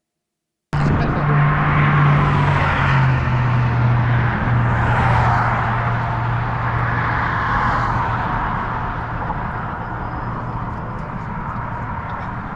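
Outdoor traffic noise that cuts in abruptly about a second in: a steady low engine hum that drops slightly in pitch, over a broad rushing noise that swells and fades several times, with faint voices. It eases off a little toward the end.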